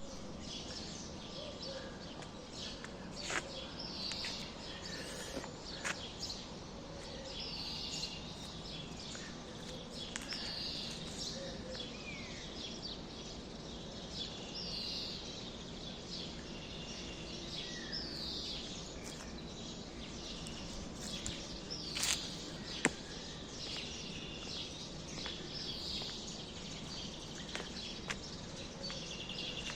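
Small birds chirping outdoors, a short falling call repeated every couple of seconds over a steady background hum, with a few sharp clicks about three, six and twenty-two seconds in.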